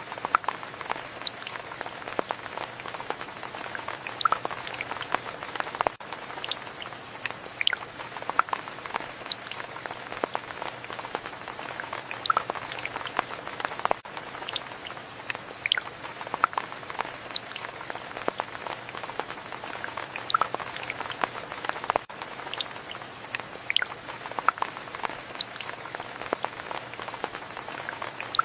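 Steady rain falling, with many individual drops ticking and pattering close by.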